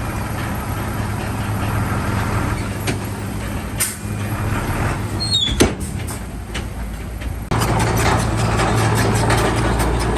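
Bulldozer's diesel engine running with metallic clanking from the tracks, and a brief falling squeal about five and a half seconds in. The engine gets louder suddenly about seven and a half seconds in, as if taking on load.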